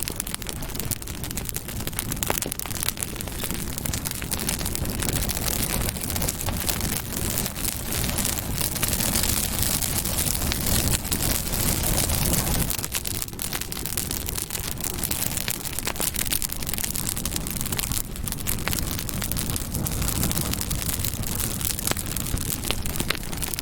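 Campfire burning: a steady low rush of flames with many small, irregular crackles and pops from the wood.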